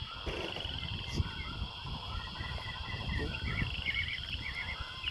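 Birds chirping and trilling, over a low rumble.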